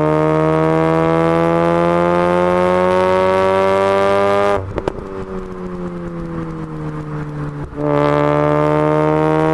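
Mazda RX-8's two-rotor rotary engine, breathing through a stainless aftermarket exhaust and decat pipe, held at high revs with its pitch slowly rising. About four and a half seconds in the throttle is let off with a few sharp pops, and the revs sink. Near the end it is revved up and held high again.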